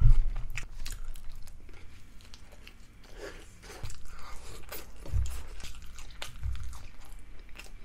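A person bites into a folded beef burger and chews the mouthful close to the microphone, with soft wet smacking and clicking mouth sounds and a few low thuds.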